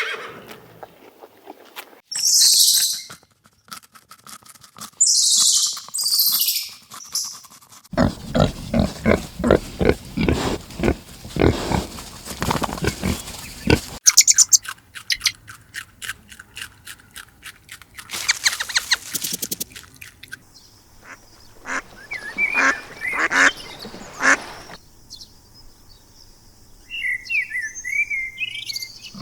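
Several different animal and bird calls, one after another, each cut off sharply: short high hissing bursts, then a long run of rapid low pulsed calls, then chirps and a warbling call near the end.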